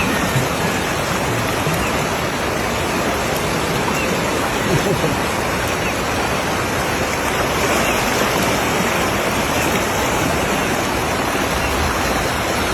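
Floodwater rushing: a steady, unbroken roar of water noise.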